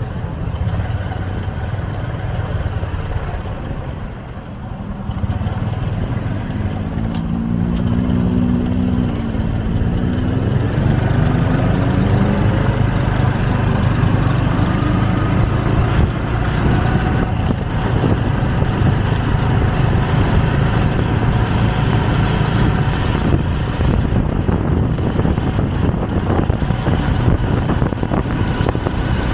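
Motorcycle taxi riding through city traffic: steady engine running and road noise, with the engine pitch rising as the bike accelerates about a quarter of the way in, then holding at a steady cruise.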